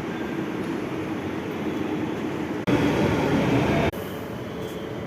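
Metro train running, a steady rumble of wheels and running gear. It turns suddenly louder for about a second near the middle, then drops back.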